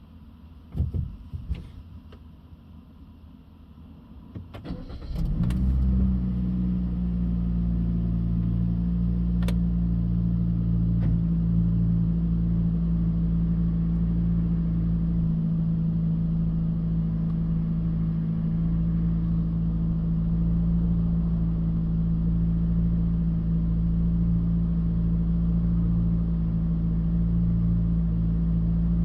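Mitsubishi Delica D2's K12C 1.2-litre four-cylinder petrol engine cranking and catching about five seconds in, with a brief rise in revs, then idling steadily. A couple of sharp knocks come about a second in, before the start.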